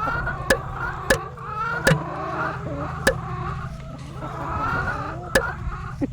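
Chickens clucking, many short overlapping calls over a steady low hum, with several sharp clicks scattered through.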